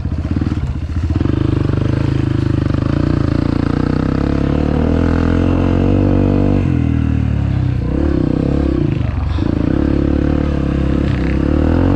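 Dirt bike engine running under throttle while being ridden. Its pitch climbs for several seconds, drops sharply about six and a half seconds in, then rises and falls again.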